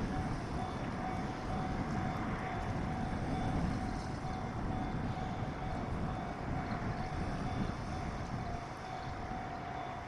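Steady low rumble of a train on the line, easing slightly near the end, with a faint steady tone over it.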